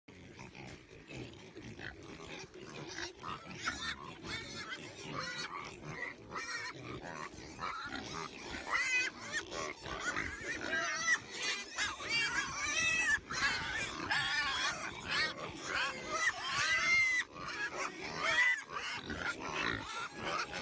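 Group of pigs squealing and grunting, with many short, overlapping high-pitched squeals. It starts softer and becomes louder and busier about halfway through.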